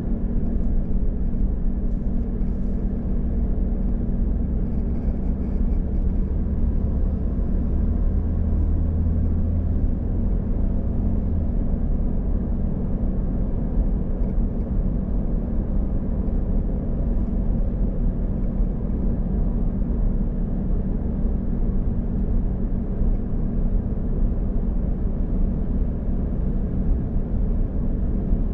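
Car driving on the road: steady low rumble of engine and tyres, with a deeper drone swelling about eight seconds in and dropping away a few seconds later.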